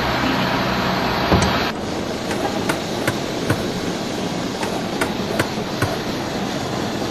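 Sharp knocks over a steady rumbling background: one heavy knock about a second and a half in, then two runs of four evenly spaced knocks, about two or three a second.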